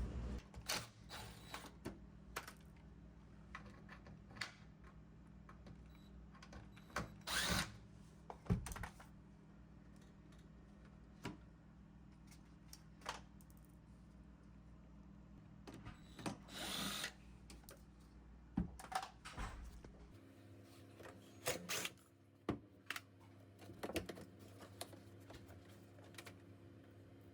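Scattered clicks, knocks and a couple of short rustling bursts from hands and tools at work, over a low steady hum that changes character about twenty seconds in.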